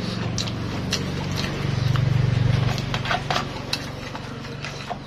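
Close mouth sounds of someone eating rice by hand: wet chewing and lip-smacking clicks. Under them a low engine hum runs, swelling loudest about two seconds in and then easing off.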